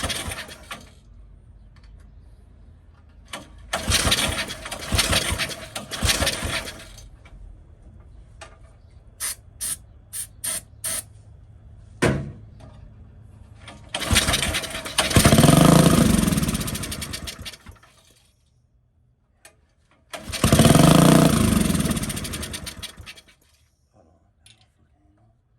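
Small 5 hp single-cylinder go-kart engine with a Mikuni carburettor and a turbo, catching and running a few seconds at a time with the revs rising and falling, then cutting out, three or four times. There is a row of short clicks between the runs.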